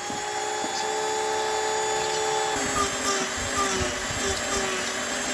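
Power drill running steadily with a whine, working into the plastic trim panel to mount the dome tweeters; its pitch drops a little about halfway through as it takes load.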